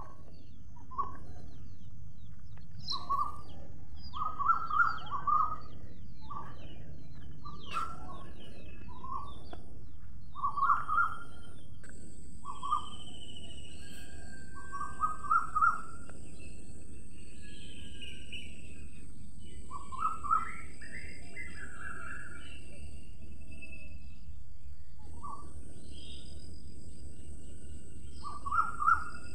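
Birds calling: short rising chirps, some single and some in quick runs of three or four, every second or two over a steady low background hiss. A faint, steady high tone joins about halfway through.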